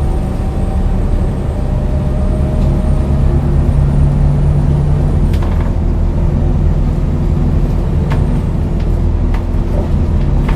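The Scania DC9 9-litre six-cylinder diesel of a Scania L94UB bus running steadily, with a faint high whine that stops about halfway through and a few sharp clicks.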